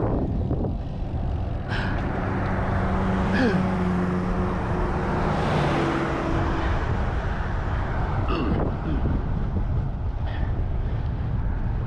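Steady low rumble of riding on a bicycle along a road, with a motor vehicle passing about halfway through and a few short clicks.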